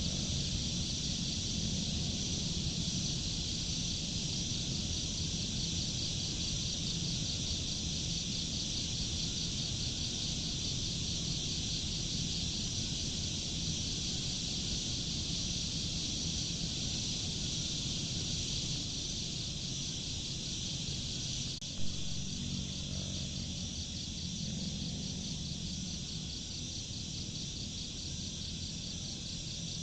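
Steady chorus of insects trilling, with a low rumble underneath and a single short click about two-thirds of the way through.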